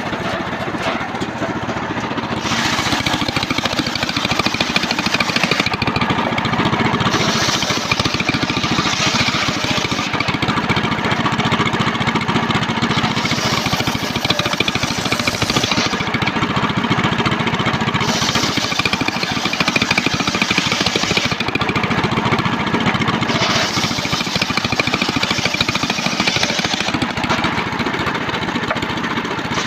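Engine-driven circular sawmill running steadily while its blade saws trembesi logs. The sound turns sharper and brighter in repeated stretches of a few seconds each, as the blade passes through the wood.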